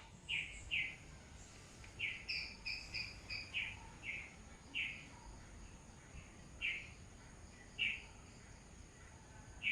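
Bird chirping: short, clear chirps, a quick run of about five around two seconds in, then single chirps spaced a second or so apart. Underneath is a faint, steady low rumble of outdoor background noise.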